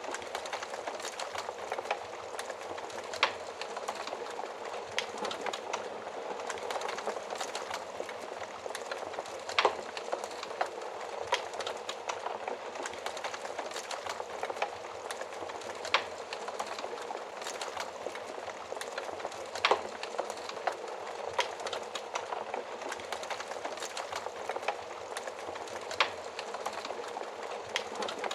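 Wood fire crackling: a steady soft hiss of burning with frequent small crackles and a sharp louder pop every few seconds.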